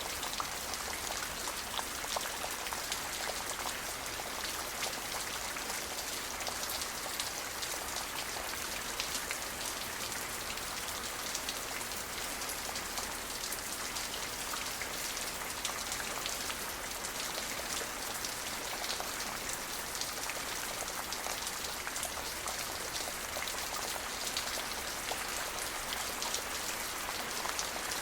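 Steady rain falling, with many fine drop ticks on a surface, an even hiss that holds its level throughout.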